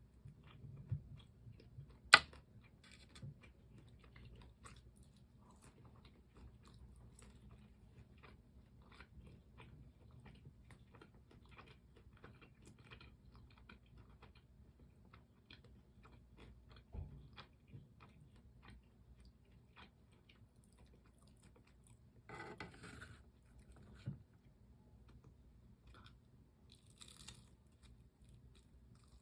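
Close-miked chewing of seasoned fried chicken: a run of small, quiet crunches and mouth clicks, with one sharp loud crunch about two seconds in and a brief rustle-like burst near the twenty-two-second mark.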